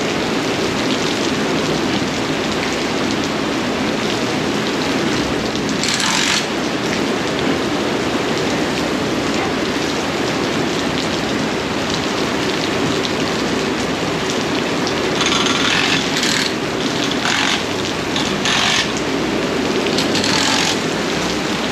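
Steady rain noise. Several short, sharp bursts of a tool or rattle come through it about six seconds in and again several times in the last seven seconds.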